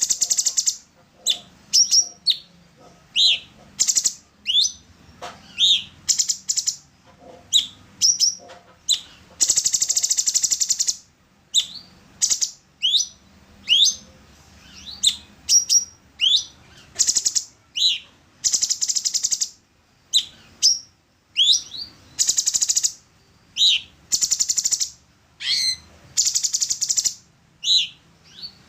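Orange-bellied leafbird singing: a rapid string of short whistled notes, each sweeping up or down in pitch, broken every few seconds by harsh, buzzy chattering phrases about a second long.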